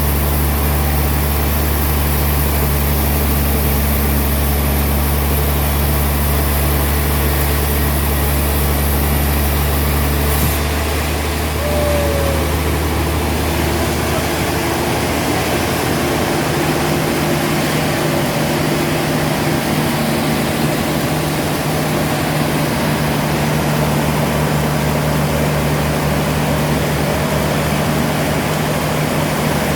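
Heavy sawmill machinery running steadily, a continuous mechanical drone with a low hum. About ten seconds in the sound changes abruptly, losing its deepest tone.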